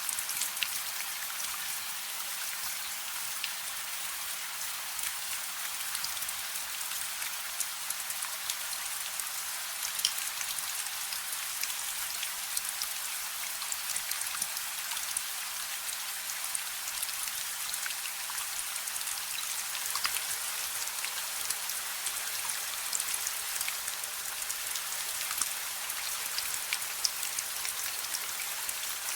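Steady rain falling, with many separate drop hits heard close by over an even wash of rain noise.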